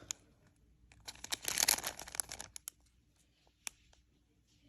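Packaging crinkling and rustling as items are handled, a flurry of crackles lasting about a second and a half, then a single sharp tap later on.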